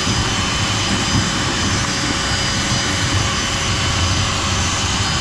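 Vacuum cleaner running steadily: a loud rushing of air with a high, steady motor whine.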